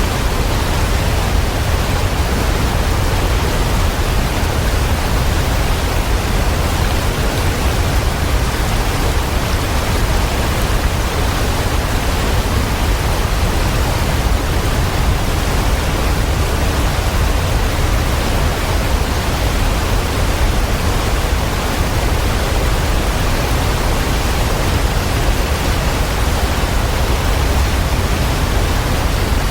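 Waterfall: a steady, unchanging rush of falling water with a deep rumble underneath.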